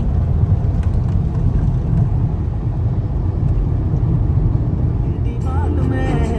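Car on the move, heard from inside: a steady low road and engine rumble. Music with a singing voice comes in near the end.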